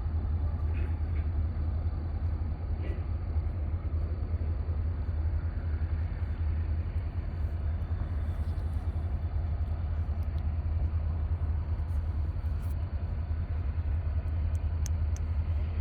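Diesel locomotive idling, a steady low rumble that holds even throughout.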